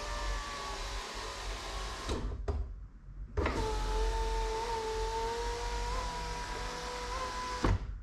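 VW Golf Mk5 rear door electric window motor and regulator moving the glass: one run stops with a clunk about two seconds in. After a click and a short pause, a second run of about four seconds has a steady whine and ends with a knock. The repaired window mechanism is working as it should.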